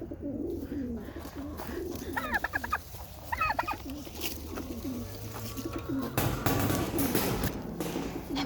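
Pigeons cooing, a low wavering coo repeated over and over. Two short higher bird calls come about two and three and a half seconds in, and a stretch of rushing noise comes near the end.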